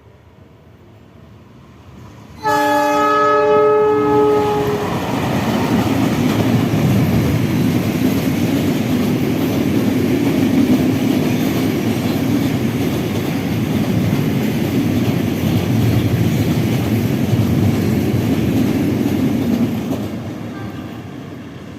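A train sounds its horn, a chord of several notes held for about two seconds, then passes close by with a loud steady rumble and clatter of wheels on rails for about fifteen seconds. The rumble fades near the end.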